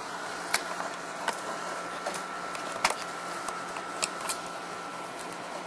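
Room noise with a steady hiss and a faint steady high tone, broken by a few light clicks.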